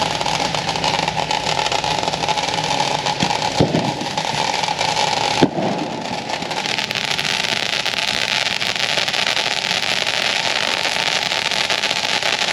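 Ground fountain firework spraying sparks with a steady hiss and crackle, with two sharp pops a little under two seconds apart near the middle.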